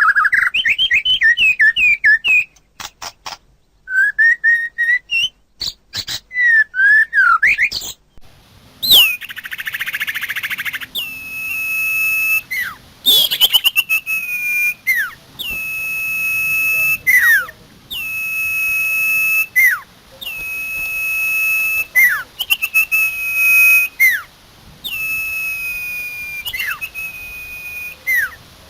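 Songbird song of common iora and white-rumped shama: a quick run of warbled, chattering notes, then a short harsh rasp about nine seconds in. After that comes a long, clear, steady whistle that opens with a quick downward flick, repeated about every two and a half seconds.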